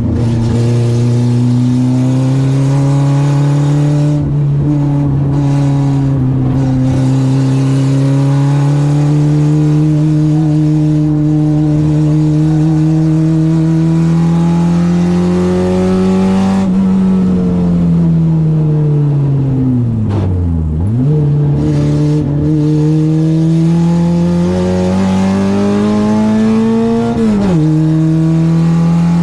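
Citroen AX 8-valve four-cylinder engine on twin Weber 40 carburettors running hard at high revs, the pitch climbing slowly through long pulls. The revs drop about 17 s in, fall steeply and climb again around 21 s, and drop abruptly near 27 s, as with lifting off, braking and gear changes.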